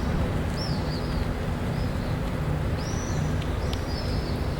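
Small birds chirping, short high arched calls repeated several times, over a steady low rumble.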